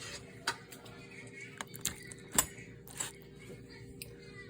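Scattered light clinks and taps of a serving utensil against a pot and plate as food is dished out, over a steady faint hum.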